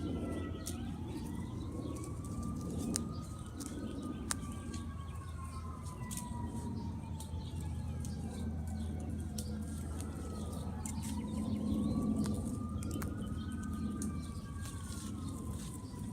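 A distant emergency-vehicle siren wailing, its pitch rising and falling slowly over several seconds, over a steady low rumble with a few small clicks.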